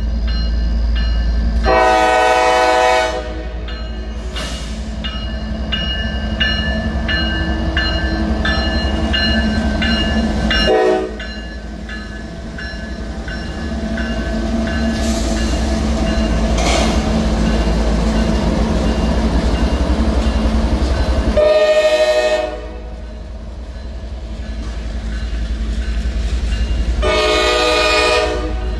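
Norfolk Southern freight train passing a grade crossing. The lead GE ES44AC diesel locomotives run loud and close, and the air horn sounds four times: long, short, long, long. Between blasts the wheels click over the rail joints as the freight cars roll by.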